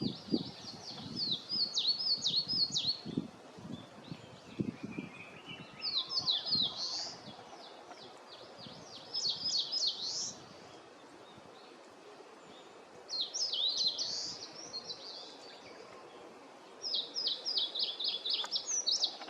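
Eastern crowned warbler singing: a quick phrase of sharp, high repeated notes, given five times with a pause of a few seconds between phrases.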